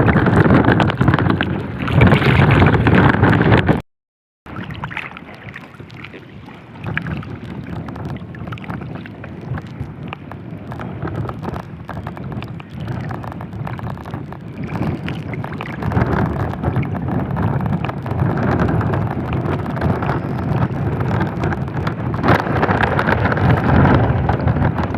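Strong wind buffeting the microphone, a dense rumbling rush with no pitched sound. It is loudest at the start, cuts out for about half a second about four seconds in, and then builds up again in gusts.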